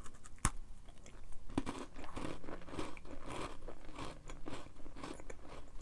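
A person biting into and chewing a crunchy oat granola cup topped with almond butter. A sharp crack comes about half a second in, followed by steady crunchy chewing, a few crunches a second.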